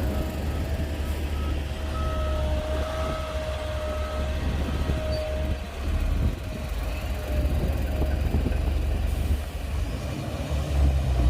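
Bulldozer at work: a deep, steady diesel engine rumble with a high whine running over it for the first half.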